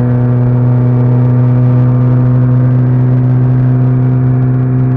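Car engine running at a steady highway cruise, heard from inside the cabin as a loud, even low drone that holds one pitch.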